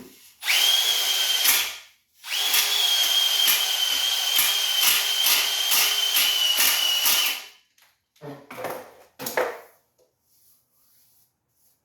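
Electric drill spinning a cylinder hone in the bore of a Ford 289 V8 block: a short run, then about five seconds of steady whine with a regular scraping pulse about twice a second, then it stops. Two short knocks follow.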